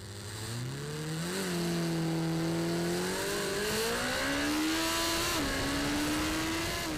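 Kawasaki Ninja ZX-14R's 1441cc inline-four engine accelerating hard through the gears. Its pitch climbs, and drops briefly at each upshift, about three times.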